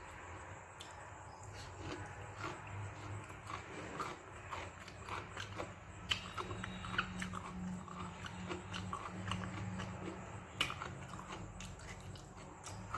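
A person chewing a mouthful of soft fermented rice and okra stir-fry close to the microphone: irregular wet smacks and small mouth clicks, with a few louder smacks about six, seven and ten and a half seconds in.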